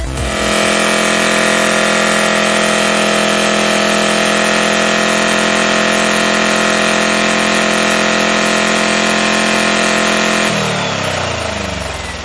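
Freshly built 1776cc air-cooled VW Beetle flat-four engine running at a steady speed on its first run. About ten seconds in, it is switched off, and its pitch falls as it winds down.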